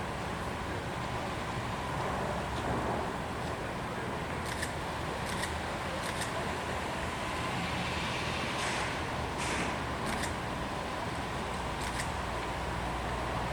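Steady low rumble of outdoor harbour background noise, with several short faint clicks scattered through it and two brief hisses about two-thirds of the way in.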